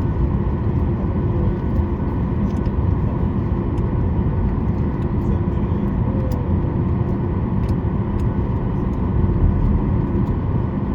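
Cabin noise inside a Boeing 737 MAX 8 taxiing after landing: a steady rumble of the CFM LEAP-1B engines at idle and the cabin air system, with a few faint clicks and rattles now and then.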